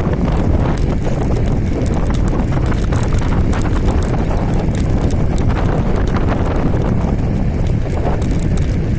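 Wind buffeting the microphone over steady road rumble from an electric scooter with a hoverboard hub motor riding along, with frequent small knocks and rattles.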